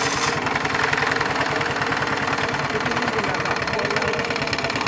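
Honda Activa scooter's single-cylinder four-stroke engine, fitted as a boat engine, running steadily just after being started, with an even, rapid firing beat.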